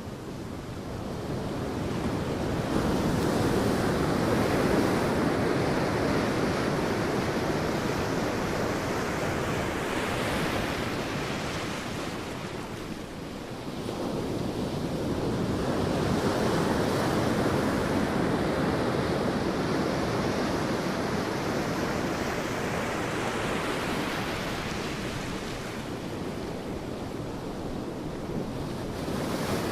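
Sea surf breaking and washing up a beach in long, slow swells, with a lull about 13 seconds in before the next wave builds.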